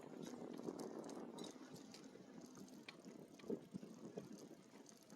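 E-bike rolling along a trail: faint tyre and frame noise with a few scattered light clicks and rattles.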